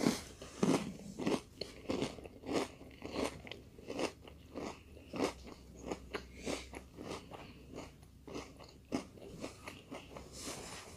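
A mouthful of Peach Cheerios cereal in almond milk being chewed and crunched, about three crunches a second, tailing off near the end as the mouthful is finished.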